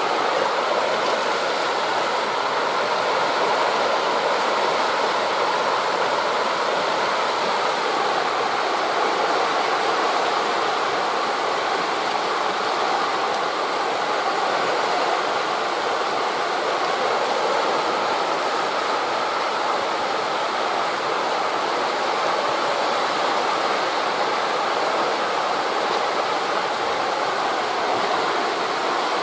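Steady rushing of wind through tree leaves mixed with the surf of waves on a beach, blending into an even, unbroken hiss.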